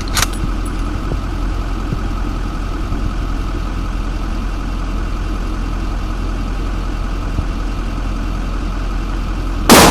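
A steady low rumble, then near the end a single loud rifle shot fired at a propane tank.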